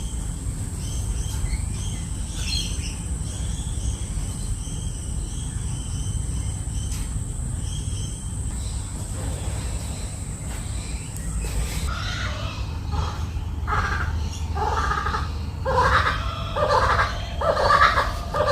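Kookaburras calling: faint high chirps at first, then, about two-thirds of the way in, a loud, rapidly repeated laughing chorus that builds toward the end.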